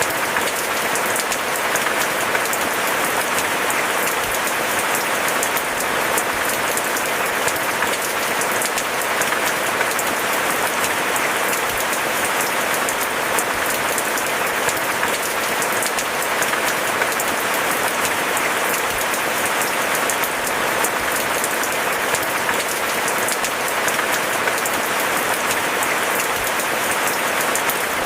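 Steady rain falling, a dense, even patter of many drops with no let-up.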